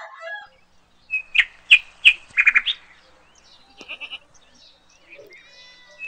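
Bird calls: a quick run of short, high notes about a second in, then a few fainter ones near the middle.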